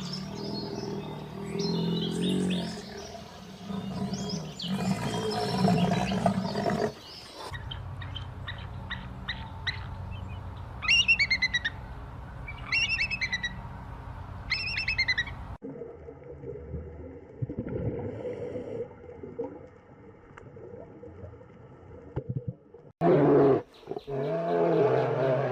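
A run of animal calls from several clips cut together, with low, pitched calls at the start and at the end. In the middle a bird sings short, quick phrases of chirps, repeated a few times.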